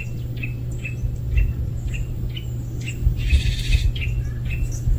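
A small bird chirping over and over, short high chirps about twice a second, over a steady low rumble. A brief hiss about three seconds in.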